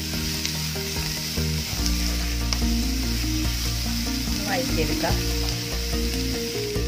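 Chopped onions, peanuts and green chillies sizzling in hot coconut oil in a non-stick pan, stirred with a wooden spatula.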